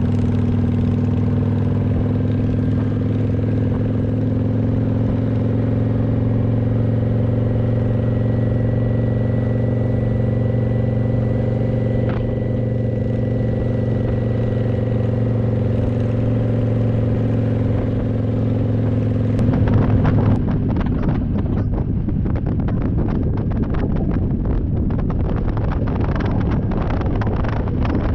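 Motorcycle engine running at a steady speed. About twenty seconds in, wind starts buffeting the microphone and mostly covers the engine.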